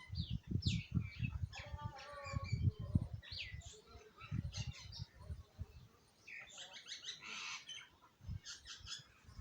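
Several small birds chirping in quick, short, overlapping calls as they squabble over food, with low irregular thumps underneath.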